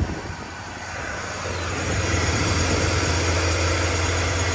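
BMW M54 3.0-litre inline-six running at idle soon after a cold start, a steady hum with a broad hiss. It dips in the first second, then grows louder and holds steady from about two seconds in.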